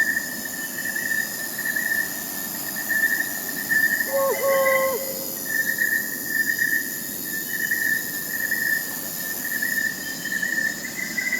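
Crickets trilling steadily, with higher insect buzzing above them, and an owl hooting once, a flat call of about a second, about four seconds in.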